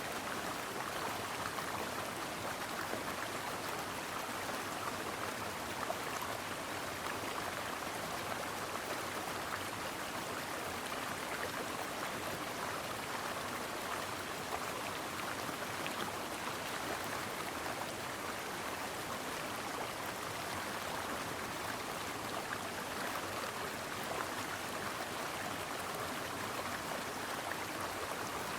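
Steady babbling of a shallow stream running over rocks, an even rushing wash with fine splashing detail.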